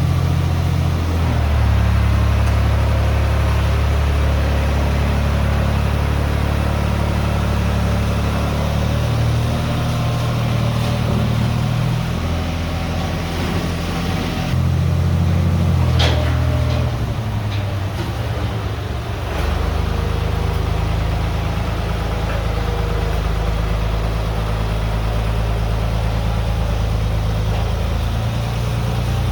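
Engine running steadily, its pitch shifting up and down every few seconds, with a few sharp clicks around the middle.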